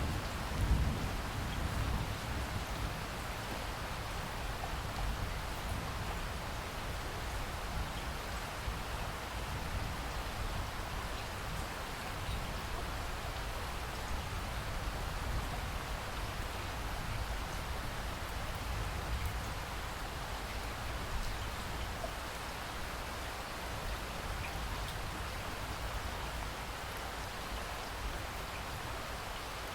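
Steady rainfall, drops pattering on surfaces, with a brief low rumble about a second in.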